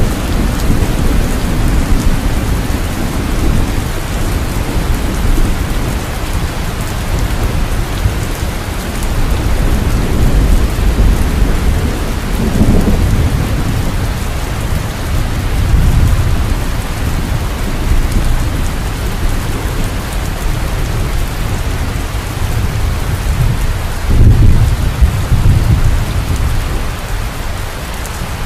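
Steady heavy rain with rolling thunder: low rumbles swell up around halfway through and again near the end.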